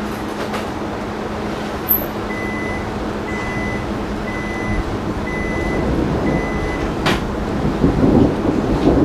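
A vehicle's reversing alarm beeping five times, about one beep a second, over a steady noisy background. The background grows louder near the end, with a sharp click just before.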